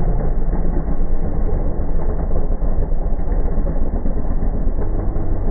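Engine running steadily at a low pitch, with no revving.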